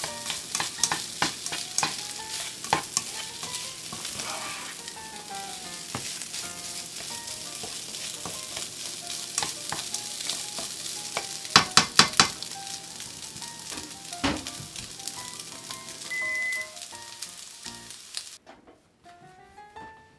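Beef sizzling as it is stir-fried in a pan, with a spatula clicking and scraping against the pan. There is a quick run of loud knocks about twelve seconds in, and the sizzling stops suddenly near the end. Light background music with plucked notes plays underneath.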